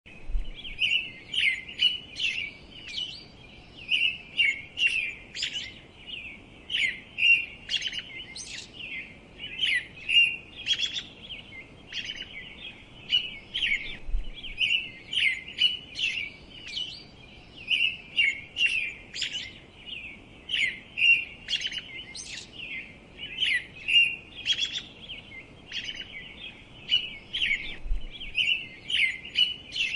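Small bird chirping continuously: short, high chirps several a second without a break.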